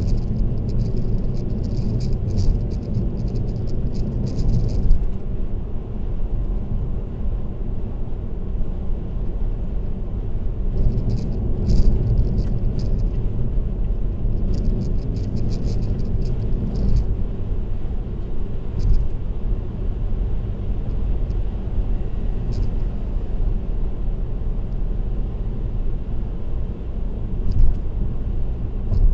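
Steady low road and tyre rumble of a car cruising on an expressway, with bursts of light, fast rattling ticks that come and go, the heaviest in the first five seconds and again from about eleven to seventeen seconds in.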